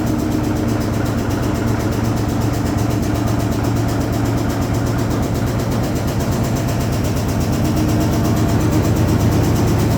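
Hoover Automatic 820 washing machine running a load, its motor and drum making a steady low hum that grows slightly louder near the end.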